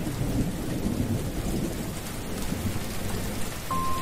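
Heavy rain falling onto a wet surface, with a low rumble of thunder under it. A single steady high tone comes in near the end.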